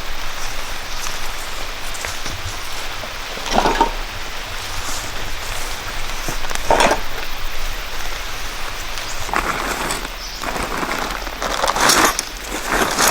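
Steady rain falling, with several short, louder bursts of noise every few seconds.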